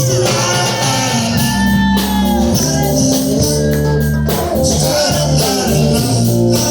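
A band playing a song: a singing voice over guitar, bass and percussion, with a steady beat.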